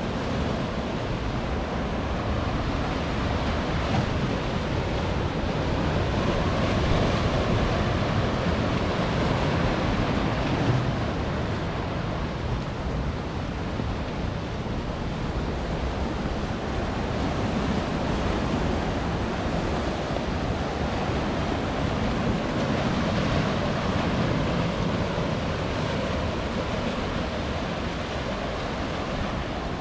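Atlantic ocean waves breaking on a rocky shore: a continuous wash of surf that swells louder and eases off in slow surges.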